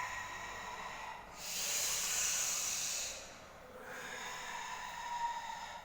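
A person doing a forceful breathing exercise: long, hissing breaths in and out, alternating between a breath with a thin whistling tone and a louder, plain hissing breath.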